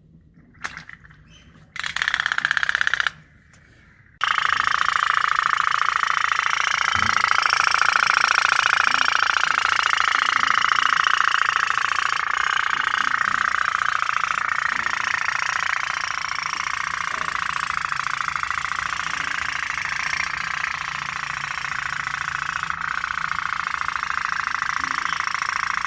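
Candle-heated toy pop-pop steam boat running, its engine putting so fast it makes a loud buzzing rattle. It starts about two seconds in, breaks off for about a second, then runs on steadily.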